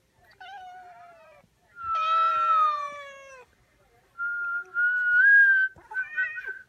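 A cat meows twice in protest at whistling: two drawn-out calls that fall in pitch, the second louder. These are followed by a person whistling a steady note in two short stretches.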